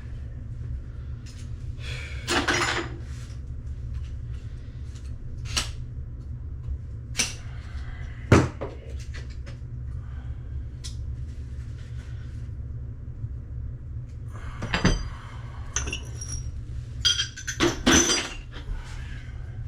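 Scattered clinks and knocks of metal hand tools and plumbing parts being handled, with the loudest sharp clank near the middle and a cluster of clanks near the end, over a steady low hum.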